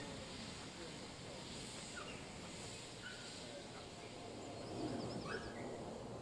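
Small birds chirping over quiet background ambience, with a short trill about four and a half seconds in.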